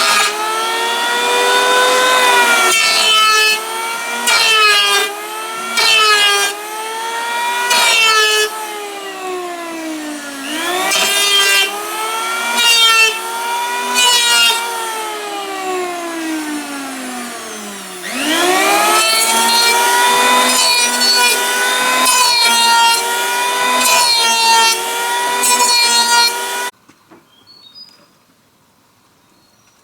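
Chainsaw cutting wood, its motor note climbing and sagging as it revs and then bogs down under load, with short rasping bursts as the chain bites. It cuts off abruptly near the end.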